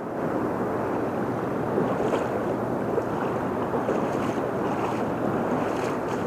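Steady rush of river water running high and fast.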